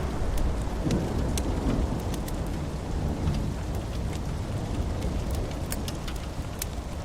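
Storm ambience: steady rain with a low rumble of thunder slowly dying away, and scattered sharp ticks throughout.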